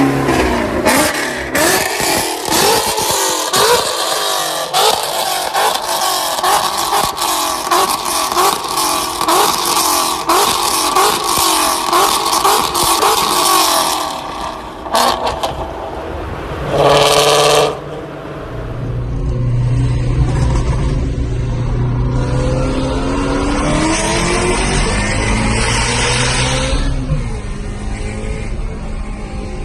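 Naturally aspirated 5.2-litre flat-plane-crank V8 of a Ford Shelby GT350 with a Corsa X-pipe and catless long-tube headers, revving hard and climbing in pitch again and again through several gears. After a short lift, a brief loud rev comes near the middle, then the engine settles into a lower, steadier drone with gentle rises in pitch.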